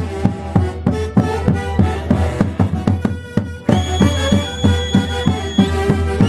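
Andean orquesta típica playing Santiago festival music over a steady drumbeat of about three strokes a second. Past the middle, one high note is held for about two seconds.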